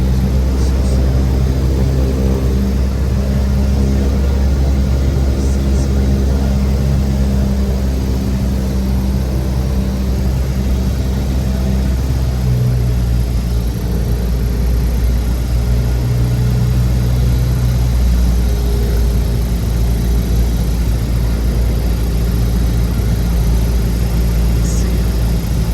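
Cessna 172's piston engine and propeller running with a steady, loud drone.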